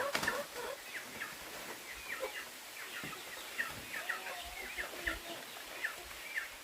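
Ducklings peeping: many short, high peeps overlapping, several a second.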